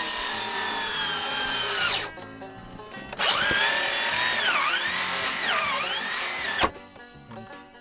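Cordless power tool motor whining in two long runs with a short gap between them. Its pitch sags twice under load during the second run, then the tool stops.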